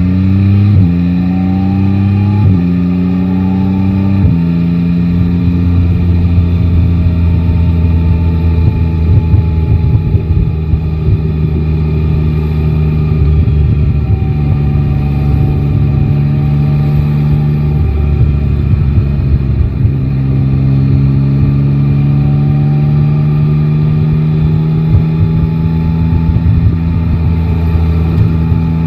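Yamaha Tracer 9 GT's three-cylinder engine pulling hard up through the gears, with three quick upshifts in the first four seconds, then cruising at fairly steady revs, easing off and picking up again a few times.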